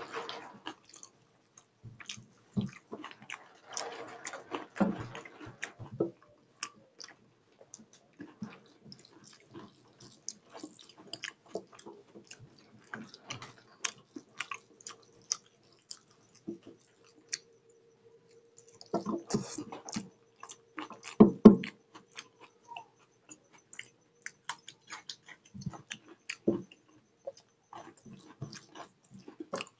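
Close-up mouth sounds of a man chewing a mouthful of rice and egg curry, with wet smacks and clicks, and fingers squishing and mixing rice against a steel plate. The chewing comes in two louder stretches, a few seconds in and about two-thirds through.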